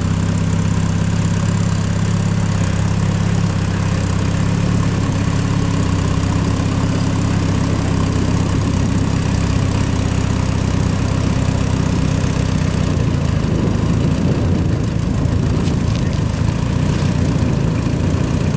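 Off-road 4x4's engine idling steadily, its note turning slightly rougher and less even about two-thirds of the way through.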